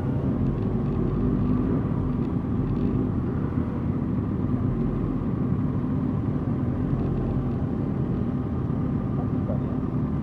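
Suzuki GSX-R 1000 inline-four engine running steadily, with no revving up or down.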